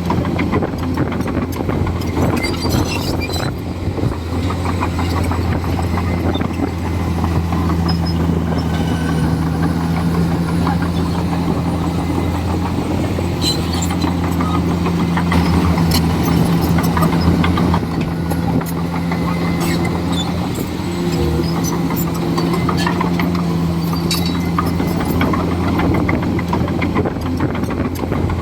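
Komatsu D41E bulldozer's diesel engine running steadily under work, its note shifting slightly now and then, with scattered short clanks and knocks over it.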